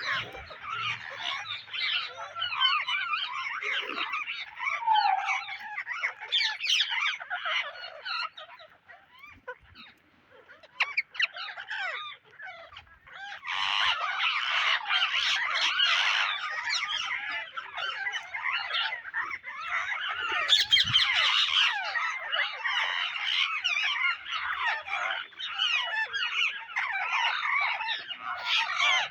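Several Psittacula parakeets chattering and calling over one another in a dense stream of short, high chirps. The calling thins out about nine seconds in and picks up again a few seconds later.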